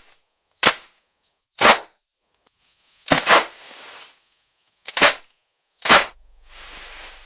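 A run of sharp, loud strikes, about one a second and irregularly spaced, some of them doubled, each with a short ring after it.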